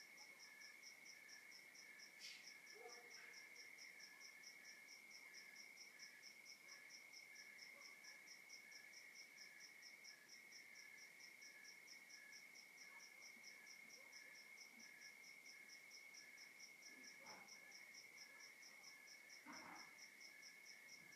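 Faint night chorus of crickets: one steady high trill with evenly repeated chirps above and below it, and a few soft clicks.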